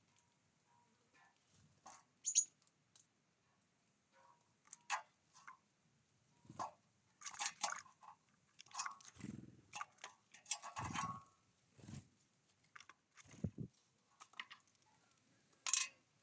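Birds at a feeder pecking and cracking seeds: irregular taps, knocks and crunching, with a brief high squeak about two seconds in.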